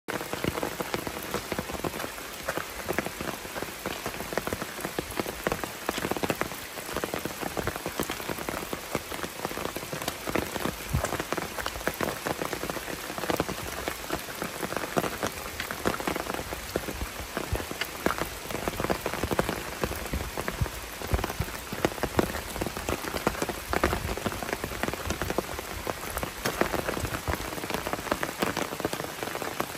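Heavy rain falling on a forest: a dense, steady crackle of countless drops.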